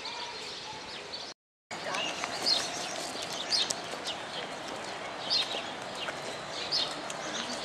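Small birds chirping in short, repeated high calls over a low murmur of outdoor background noise; the sound drops out completely for a moment about a second and a half in.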